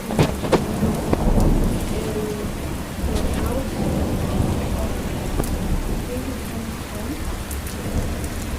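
Steady rain falling, with a few sharp cracks near the start and a low rumble of thunder peaking about a second in.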